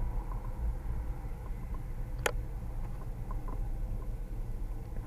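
Low steady background rumble, with one short sharp click a little past two seconds in.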